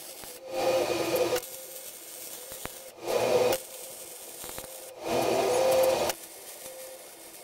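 MIG (wire-feed) welder arc crackling on a steel welding table in three short welds of about half a second to a second each. The welds are short and spread out, skip-welded to avoid warping the table.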